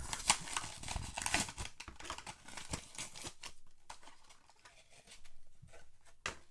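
Blister-pack packaging of a die-cast toy truck being cut and torn open: a rapid run of plastic and card crackles, rustles and clicks, busiest in the first couple of seconds, with a sharp click near the end.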